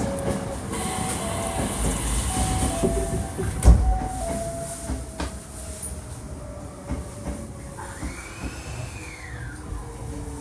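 Hankyu 1300 series electric train pulling away from a station, its Toyo IGBT VVVF inverter, an unusual-sounding unit, whining in stepped tones as it accelerates over running noise. A heavy thump comes about four seconds in, and a brief rising-then-falling whine sounds near the end.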